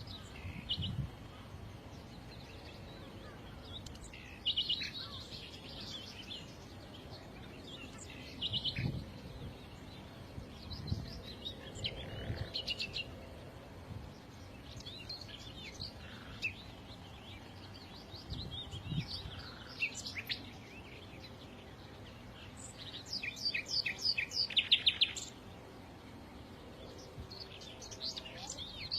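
Small songbirds chirping and singing in short phrases every few seconds, with a fast run of repeated notes, the loudest part, near the end.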